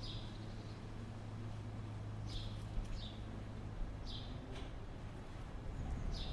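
A small bird calling with short high chirps, about five of them a second or two apart, over a steady low hum.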